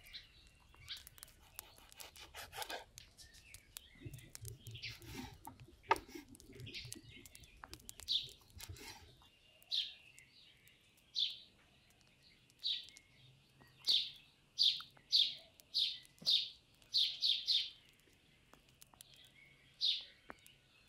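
Small birds chirping in short, repeated calls, coming thick and fast in the second half. In the first half, scattered clicks and knocks sound under a low rumble.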